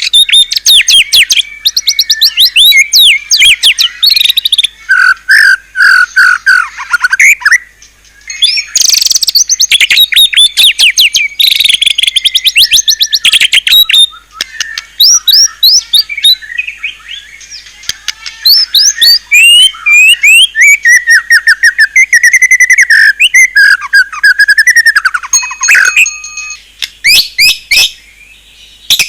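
White-rumped shama singing a long, loud, varied song of rapid trills, chattering runs and whistled sweeps, broken by a few short pauses; a rich song full of fill phrases (isian) of the kind kept shamas are trained on.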